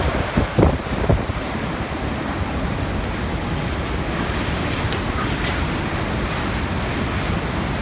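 Typhoon wind blowing hard, a steady rushing noise with heavy wind buffeting on the microphone; a few stronger gusts hit in the first second or so.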